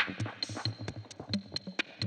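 Electronic music: a drum machine playing a steady quick pattern of low kicks and sharp ticks, about five hits a second, with a synthesizer, run through a Keeley ECCOS tape-style echo and looper pedal.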